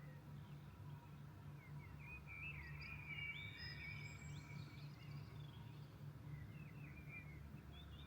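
Songbirds singing at dawn: faint, varied chirps and short whistled glides, busiest in a run about two to four seconds in, over a steady low background hum.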